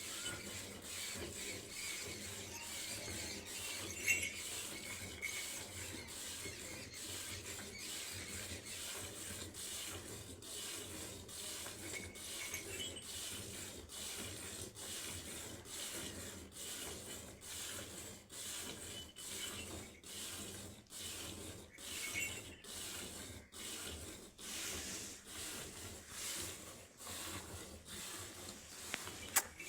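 Cow milking machine running, with a steady hiss broken by a regular pulsing rhythm.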